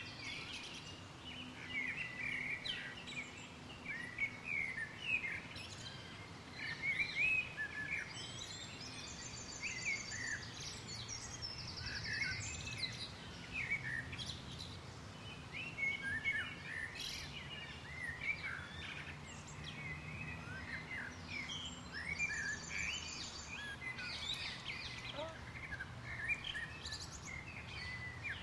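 Many small birds chirping and twittering in a busy, overlapping chorus, with a few brief higher buzzy trills.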